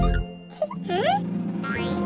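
Upbeat children's cartoon background music, with a short springy cartoon sound effect about a second in whose pitch dips and then rises.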